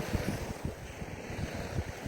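Wind buffeting the microphone in irregular low rumbles over a steady hiss of sea surf.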